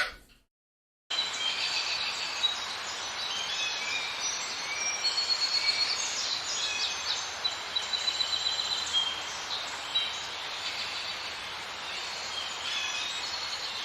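Many small birds chirping and trilling over a steady hiss of outdoor ambience, starting abruptly about a second in.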